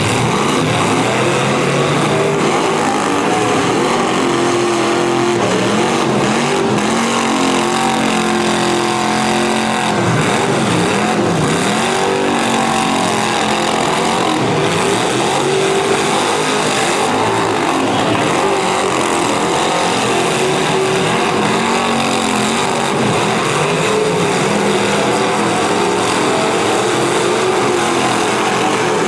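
Several V8 demolition derby cars running and revving together, engine pitches rising and falling over each other, with a few sharp knocks of impact.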